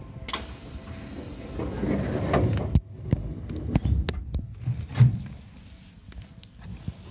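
Seibu 2000 series electric train pulling away from a station, heard from inside the carriage: a low, uneven rumble of the running gear with several sharp knocks and clunks as it gets under way.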